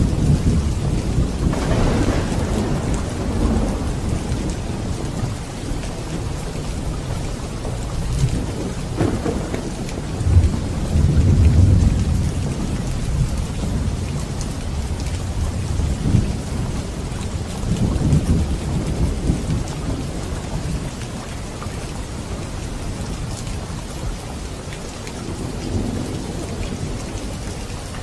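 Steady heavy rain with thunder rumbling low several times, the loudest roll about ten to twelve seconds in.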